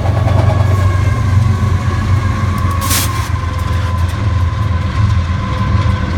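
Autorack freight train cars rolling past at speed: a steady low rumble of steel wheels on the rails, with a thin steady high tone above it and a short hissing burst about three seconds in.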